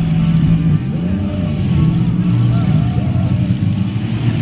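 Engines of several off-road derby cars running and revving as they race on a dirt track: a steady low drone with engine notes rising and falling.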